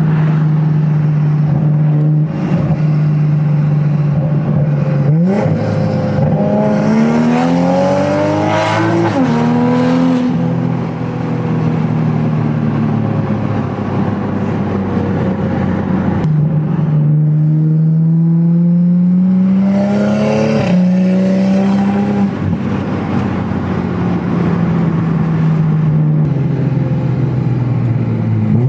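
2020 Toyota Supra's B58 turbocharged straight-six running through a straight-piped exhaust: a steady drone, then two hard accelerations with the pitch climbing and dropping back suddenly, as in a gear change, before easing off again.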